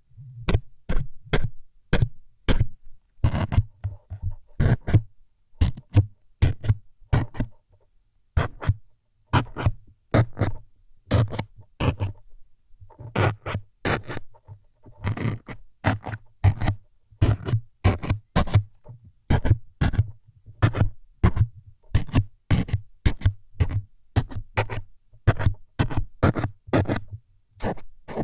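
ASMR needle-stabbing sounds close to the microphone: short, quick scraping jabs, about two a second in an irregular rhythm, each with a dull low thud underneath.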